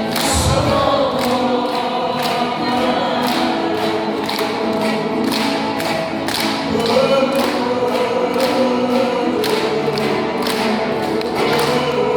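Many voices singing a Korean popular song together in a live performance, over a steady beat of about two strokes a second.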